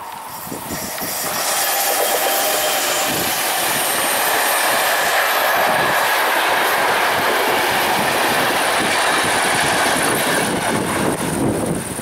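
Passenger train passing close by: a steady, loud rush of wheels and coaches on the rails that swells over the first couple of seconds, with the clickety-clack of wheels over the track.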